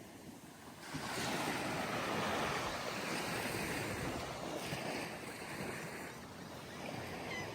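Ocean surf on a sandy beach: a wave breaks and washes in about a second in, then falls away, with smaller surges following.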